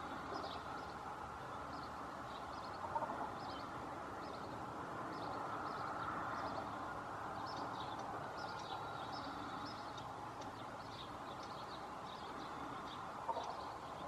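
Birds chirping in short, high notes scattered throughout, over a steady background hum.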